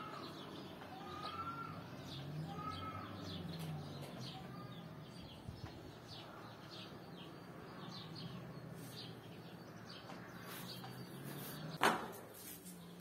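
Small birds chirping in the trees: short arching calls about once a second for the first few seconds, over faint quick high-pitched chirps. One sharp click near the end.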